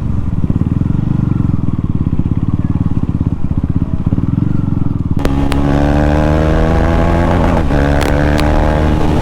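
KTM Duke 390's single-cylinder engine, run with no silencer, on the move: a low, lumpy engine note for about five seconds, then it turns suddenly louder and more tonal and holds steady, dipping briefly and picking up again.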